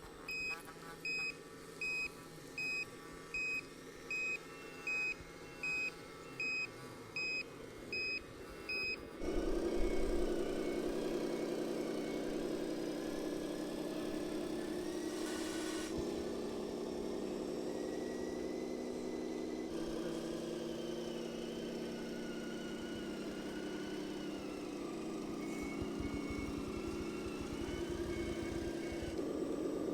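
RC model truck's electronic sound module: a reversing beeper sounding about once every three-quarters of a second, then, about nine seconds in, a simulated engine sound comes in sharply and runs steadily, its pitch wavering slightly.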